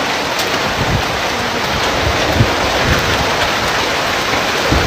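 Heavy rain of a severe thunderstorm pouring down in a dense, steady hiss, with a few brief low thuds.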